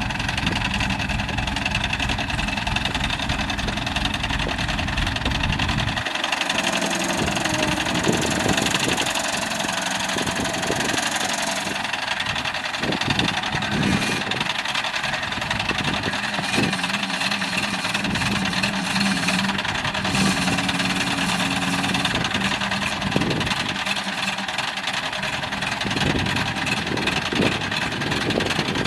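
An engine running steadily at idle, with a constant hum. The deep low end drops away abruptly about six seconds in.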